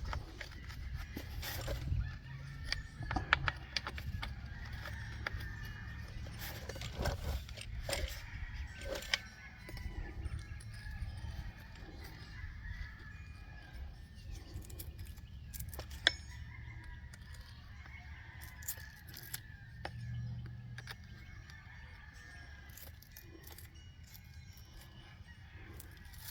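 Scattered clicks and light metal knocks of hand work on a chainsaw's bar nuts and chain tensioner while the chain tension is set, with one sharper knock about halfway through. Chickens call faintly in the background.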